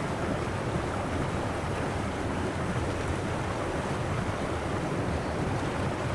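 Steady wind noise on the microphone, a low, even rush with no separate events.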